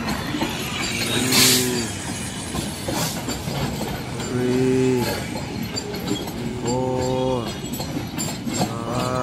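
A long freight train of flatcars loaded with trucks rolls past with a steady rumble and wheel clatter. Four drawn-out low calls, each rising then falling in pitch, sound over it about every two seconds.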